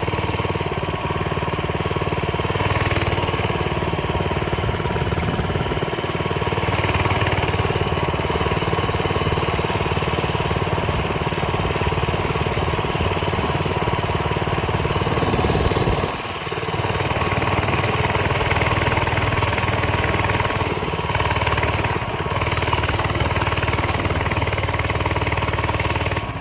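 Coleman mini bike's small single-cylinder engine running steadily as the bike is ridden, with a short drop in engine sound about two-thirds of the way through and another near the end.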